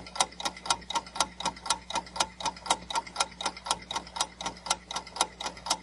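Clock-style countdown timer sound effect ticking steadily, about four ticks a second, counting down the time to answer a quiz question.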